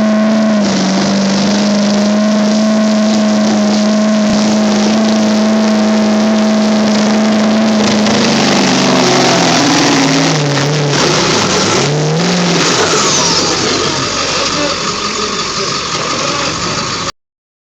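2001 Ford F350's 7.3 Power Stroke V8 turbo-diesel at full throttle, pulling the sled in a stock-truck pull. It holds steady high revs for about eight seconds, then the revs sag and surge up and down as the truck bogs under the load, and settle lower. The sound cuts off suddenly near the end.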